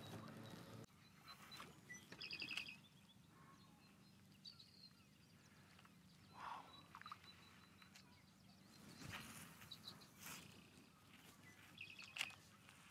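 Near silence with faint bird calls: a short run of quick, high repeated chirps about two seconds in and again near the end. A few soft knocks and rustles come between them.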